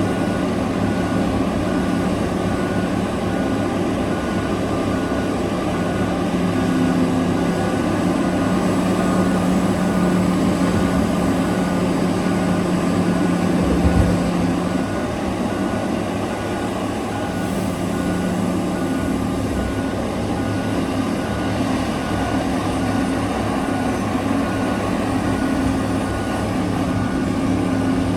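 Large diesel engines of a mining excavator and haul truck running steadily, with a reversing alarm beeping about twice a second. A single heavy low thud comes about halfway through.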